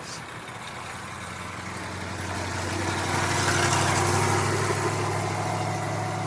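A car engine running at low revs, growing louder up to about the middle, then easing a little.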